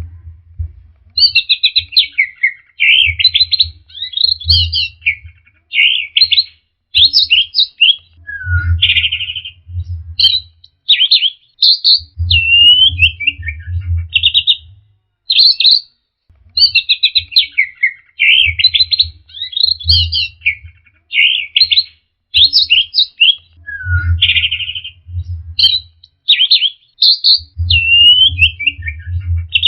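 Orange-headed thrush singing a loud, fast, varied song of sharp whistled notes and trills in phrases of a second or two with short pauses, played as a lure song to coax a silent, stressed bird into singing. The run of phrases repeats about halfway through, and a low hum comes and goes underneath.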